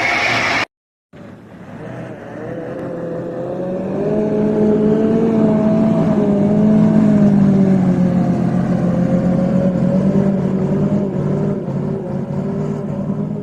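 Heavy vehicle engine running, heard after a brief dropout. It builds over several seconds, then holds a steady drone that wavers slightly in pitch.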